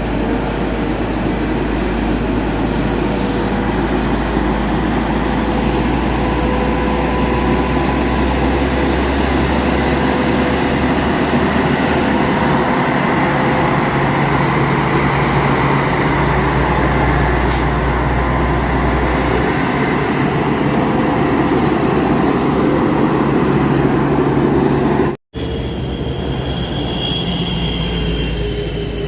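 Heavy diesel truck engine running steadily under load. After a sudden cut near the end, a high, wavering squeal comes in.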